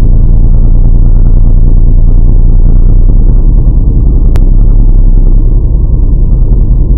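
Toyota Soarer drag car's engine running steadily at the start line, loud and deep, with no change in pitch.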